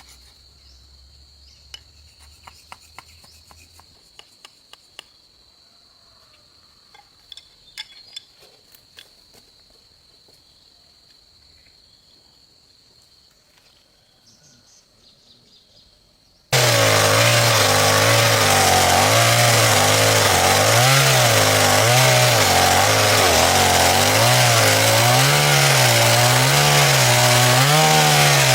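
Scattered sharp taps and knocks over a faint steady high whine. About sixteen seconds in, a loud chainsaw cuts in abruptly and runs on, its pitch wavering up and down.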